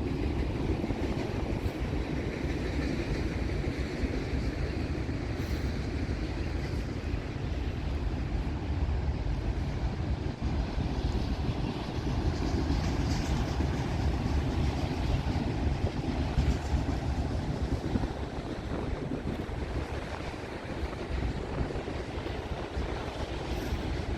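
Long freight train's cars rolling past at trackside, a steady rumble of wheels on rail, with wind buffeting the microphone.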